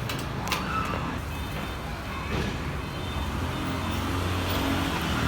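Low, steady rumble like a running motor vehicle, with a faint click about half a second in.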